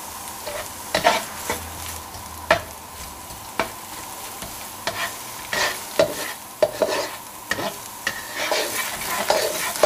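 Spring onions and minced garlic sizzling in hot oil in a non-stick wok, with a spatula scraping and tapping against the pan as they are stirred; the scrapes come more often in the second half.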